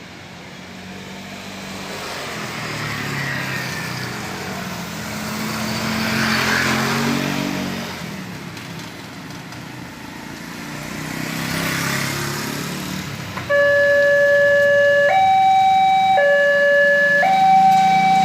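Vehicles passing on a rain-wet road, the tyre and engine noise swelling twice as they go by. About thirteen seconds in, a railway level-crossing alarm starts: a loud two-tone hi-lo signal alternating about once a second, the warning that a train is approaching.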